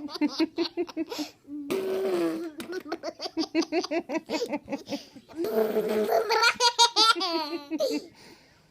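A baby laughing in rapid bursts of giggles, with a couple of longer silly vocal noises in between.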